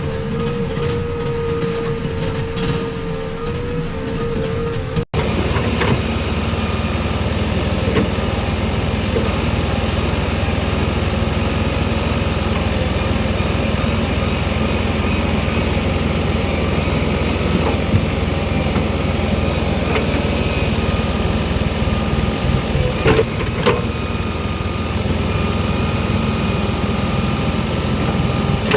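Diesel engine of a JCB 3DX backhoe loader running steadily, with a few scattered knocks and clanks. For the first few seconds a steady whine sits over the engine. The sound then breaks off for an instant and resumes with a heavier rumble.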